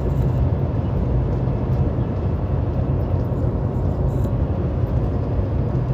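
Steady low rumble of a semi-truck at highway speed heard from inside the cab: engine drone and road noise, unchanging throughout.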